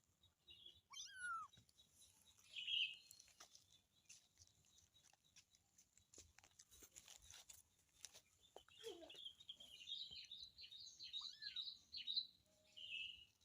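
Faint high-pitched animal calls: two short rising squeaky mews, one about a second in and one near the end, with a run of quick high chirps between them. This fits a young kitten calling for its mother.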